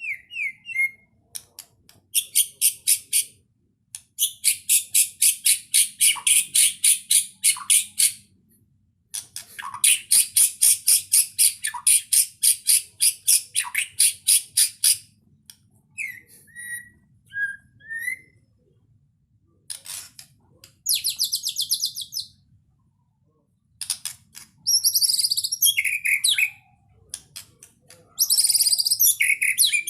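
White-rumped shama (murai batu) in full, vigorous song, a song filled with imitated phrases. Long runs of rapid repeated high notes, about five a second, alternate with short whistled glides and varied chattering phrases.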